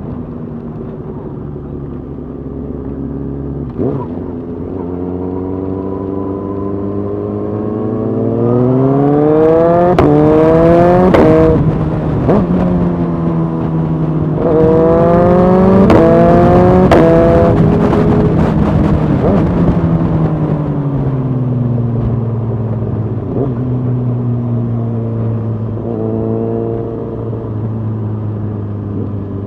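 Suzuki GSX-R 1000's inline-four engine heard from the rider's seat, accelerating hard: the revs climb, drop at a gear change, climb again, then fall away as it slows and settle to a steady cruise. Wind rush grows with the speed.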